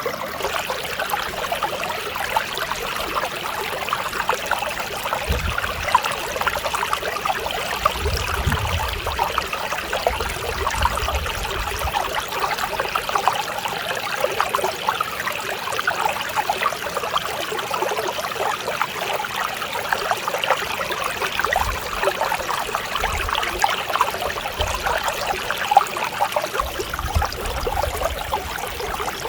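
Mountain stream water babbling and trickling over rocks, a steady rushing flow full of small splashes, with a few faint low rumbles.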